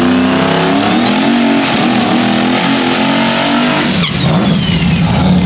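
Turbocharged drag-race engine at wide-open throttle, its pitch and turbo whistle climbing steadily for about four seconds, then the throttle snaps shut and the turbo whistle winds down.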